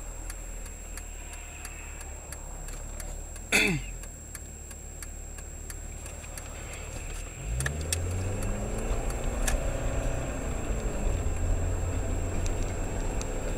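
A car's engine and road noise heard from inside the cabin, steady at first. About seven and a half seconds in, the engine revs up, its pitch rising and then holding, louder. About three and a half seconds in, a brief loud sound falls sharply in pitch, and faint regular ticks run throughout.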